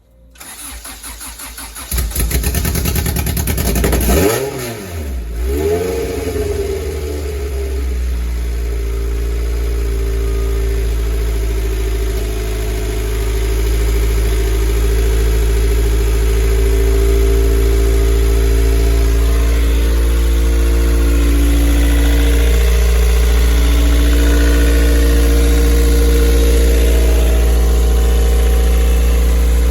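Rebuilt Honda B-series VTEC four-cylinder starting up for the first time. It catches about two seconds in, is revved up and down briefly, then settles into a steady idle.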